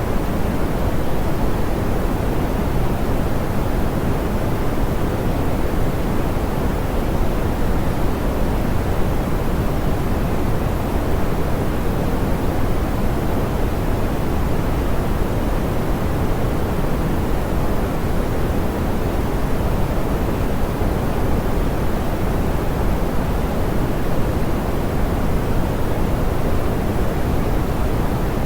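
Steady, softened pink noise: an even hiss, heavier in the low end and gently rolled off in the highs, unchanging throughout.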